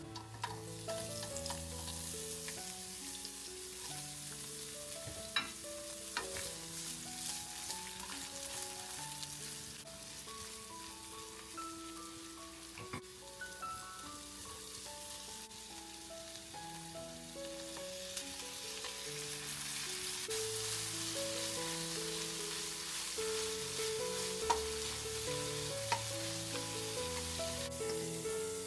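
Food sizzling as it fries in a pan, with a few sharp clicks, under soft background music with held notes.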